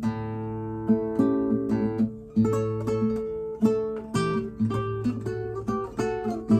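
Nylon-string classical guitar, a Torres FE-18 replica, played solo: plucked notes and chords ringing over a sustained bass note.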